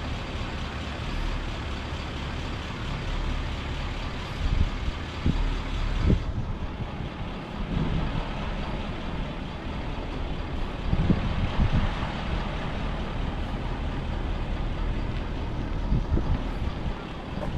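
Wind buffeting the microphone: a steady rush with irregular low gusty rumbles, strongest a few seconds in and again about two-thirds of the way through.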